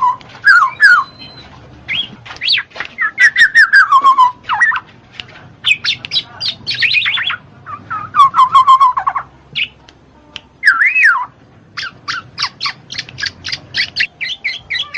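Black-naped oriole (kepodang) singing and calling in a varied run of gliding whistles and harsh squawks, breaking into a quick series of short chirps in the last few seconds.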